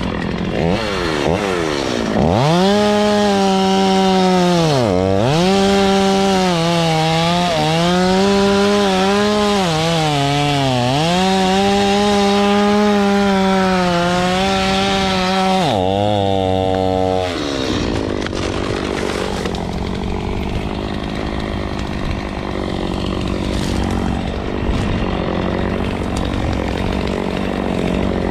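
Two-stroke chainsaw revved up and cutting into a fiddlewood tree, the engine holding high speed and dipping sharply twice as it bogs under load in the cut. About halfway through it drops to a lower speed and eases off, with a short rev near the end.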